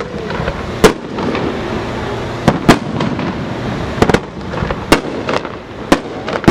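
Fireworks going off: about nine sharp bangs at irregular intervals, some in quick pairs, over a steady background noise.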